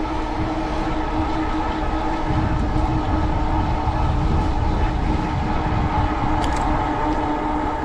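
Strong wind buffeting the microphone on a moving e-bike, a low rumble that thickens about two seconds in, over the steady whine of the bike's 750-watt Bafang rear hub motor under power.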